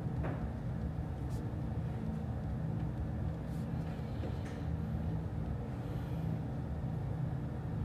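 Office room ambience: a steady low hum with a few faint, scattered clicks.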